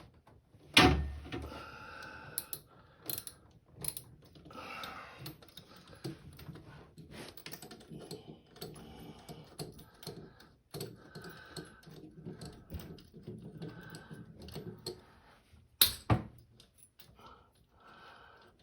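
Small metal clicks and rattles of bolts and a hand tool being worked on a washing machine's drive assembly as the bolts are put in and tightened, with a sharp knock about a second in and another near the end.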